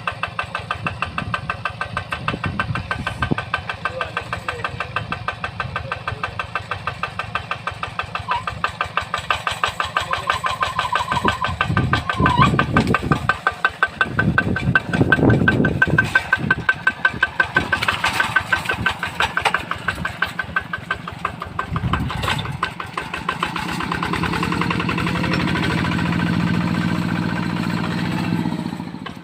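Single-cylinder diesel engine of a Yanmar walking tractor running with a rapid, even chugging, swelling louder a few times. In the last few seconds it speeds up into a smoother, louder run.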